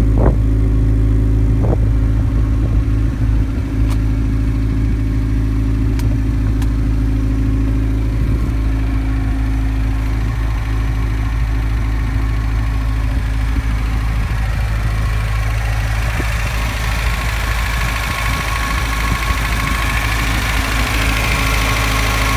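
Four-cylinder VAZ-2105 engine in a VAZ-2101 Zhiguli idling steadily through a twin-pipe exhaust, just after starting. In the last several seconds more high-pitched mechanical noise comes in, heard over the open engine bay.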